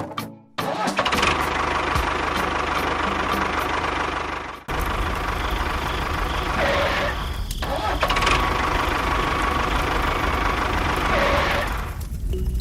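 A small engine running steadily, with a brief break about five seconds in, after which it comes back with more low rumble.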